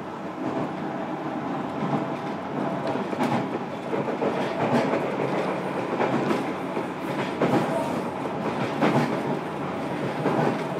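Interior running noise of a JR Kyushu 305 series electric train, heard from inside a motor car. Wheels rumble on the rail, with a rail-joint click about every one and a half seconds.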